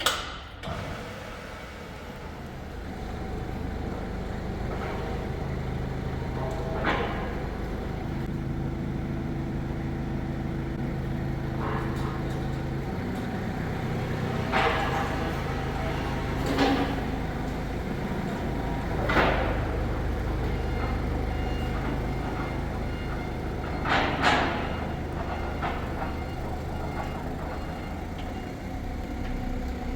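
A machine running steadily, a low hum with an even pitch, with several sharp metal clanks and knocks of heavy steel being handled over it.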